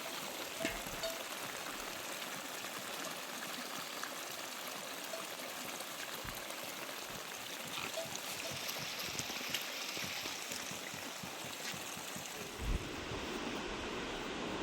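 Steady heavy monsoon rain with rushing runoff water, a constant hiss dotted with a few faint drip-like ticks. A brief low thump comes near the end.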